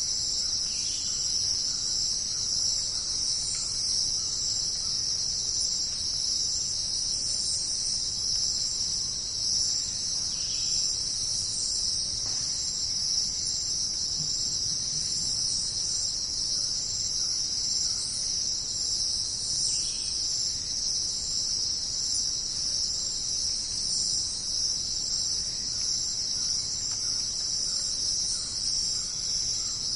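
Dense jungle chorus of insects: a steady, high-pitched shrill trilling, with a fainter, regularly repeated chirping beneath it.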